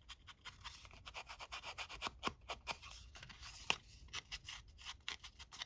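Hand distressing tool scraping and rubbing along the edge of a cardstock tag in a rapid, uneven run of short scratchy strokes, roughening the paper.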